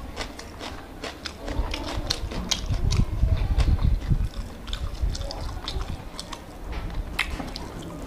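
Close-miked chewing of a bite of raw red onion: crisp crunches and wet mouth clicks, with dull low thuds that are loudest about three to four seconds in.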